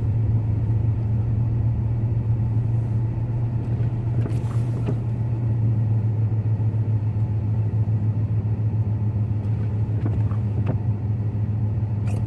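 Pickup truck driving, heard from inside the cab: a steady low engine and road drone, with a few light clicks now and then.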